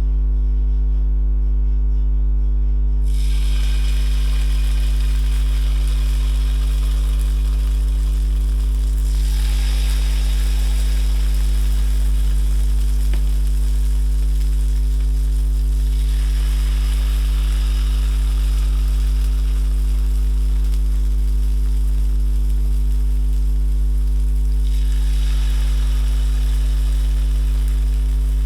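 Pumpkin fritter batter sizzling in hot coconut oil in a frying pan. The sizzling sets in about three seconds in and swells again three more times. A steady low hum runs underneath.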